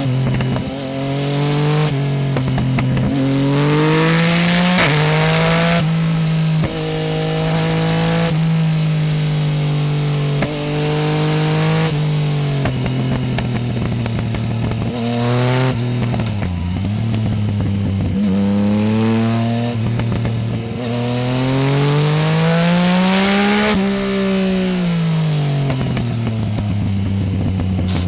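Yamaha Tracer 900 GT's three-cylinder engine running through a full Roads Italia exhaust with the dB-killer removed. It pulls up through the gears, and the revs drop sharply at each of several upshifts in the first half. Later the revs fall away and rise again in long sweeps, with wind rushing past the bike.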